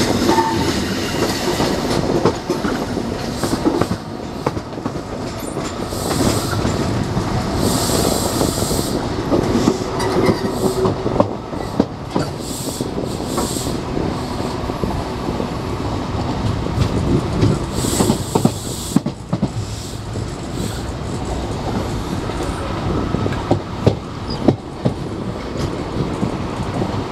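HST passenger train running along the track, heard from on board: a steady rumble with irregular clicks and knocks from the wheels over rail joints and pointwork. There are brief bursts of hiss about eight seconds in and again near eighteen seconds.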